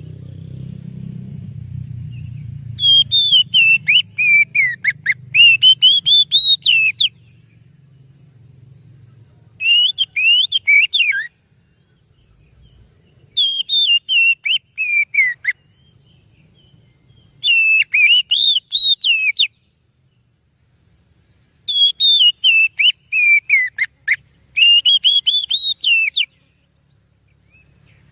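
Oriental magpie-robin (kacer) singing: about five loud phrases of rapid, sweeping whistled notes, each one to four seconds long, with short pauses between them. A faint low hum lies underneath in the first few seconds.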